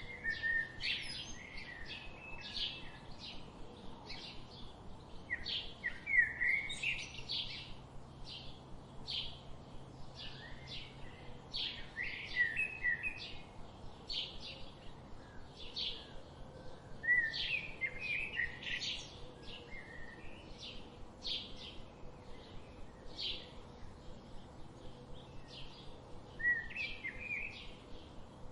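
Wild birds chirping and singing: a short high call repeated about once or twice a second throughout, with louder warbling song phrases breaking in every few seconds.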